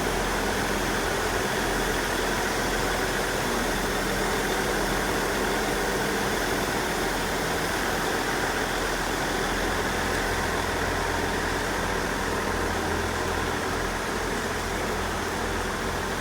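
Network Turbo diesel multiple unit's engines running steadily at low revs, under a constant hiss of heavy rain.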